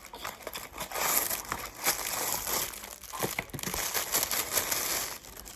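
Packaging crinkling and rustling as it is handled and pulled open during an unboxing, with scattered sharp clicks. It builds about a second in and dies down near the end.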